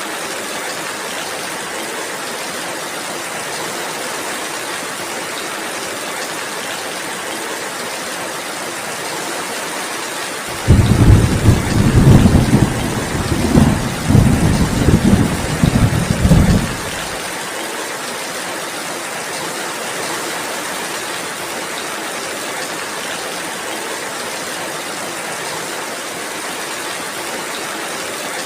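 Steady rainfall, with a low rolling rumble of thunder that swells in several waves about ten seconds in and dies away some six seconds later; the thunder is the loudest sound.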